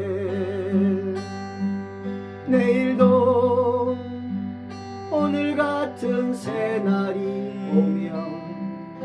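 Acoustic guitars playing a slow ballad's instrumental passage: strummed chords over a steady bass, with a lead melody line that wavers in pitch.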